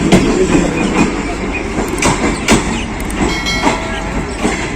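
Passenger train coaches rolling over the rails, with a steady rumble and irregular clicks and knocks from the wheels on rail joints. A short high tone sounds about three seconds in.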